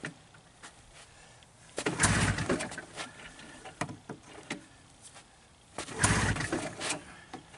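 Two pulls on the recoil starter cord of a Ski-Doo Formula STX's Rotax 583 two-stroke twin, about four seconds apart. Each is a short whirring rush as the engine cranks over without catching. The cold engine will not start, seemingly flooded with its plugs fouled, as the owner judges.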